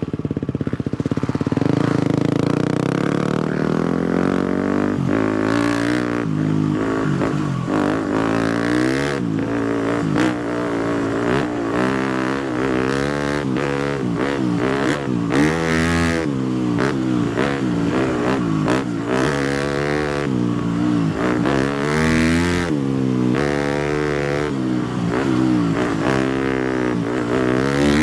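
250cc four-stroke single-cylinder dirt bike engine being ridden, revving up and falling back over and over as the rider works the throttle and gears, with short bursts of noise over it.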